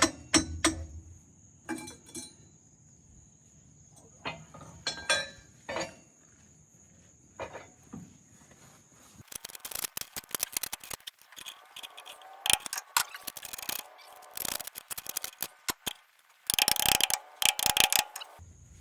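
Metal turbocharger parts being handled and fitted back together: scattered clinks and knocks, then from about nine seconds in long runs of rapid metallic clicking, loudest near the end.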